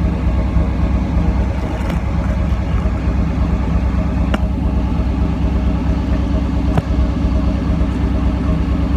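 1990 Pontiac Firebird engine idling steadily through its stock exhaust, with no revving. A couple of brief clicks sound about midway and again later.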